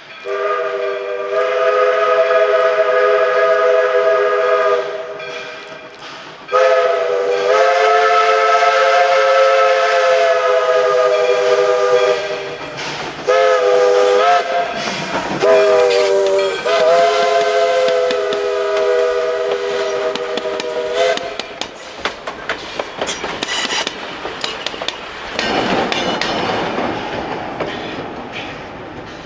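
Northern Pacific 924 steam locomotive's chime whistle blowing a three-note chord: two long blasts, three short ones with a wavering pitch, then a final long blast. Afterwards a run of clicks and a burst of hiss.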